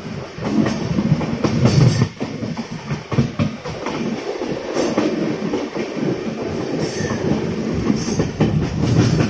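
Indian Railways 12903 Golden Temple Mail running on the line, heard from a window seat inside the coach: a loud, steady rumble of wheels on the track with irregular clacks over the rail joints.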